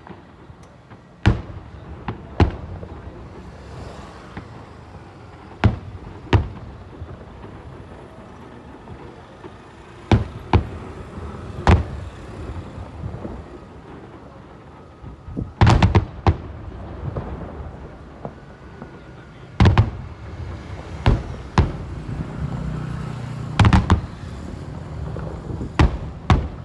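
Aerial fireworks shells bursting: about fifteen sharp booms at irregular intervals, some in quick pairs or clusters, each with a short low rumble after it.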